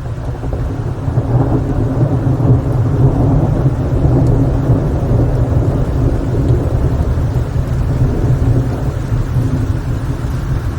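Steady rain noise with a deep low rumble underneath, building over the first couple of seconds and then holding.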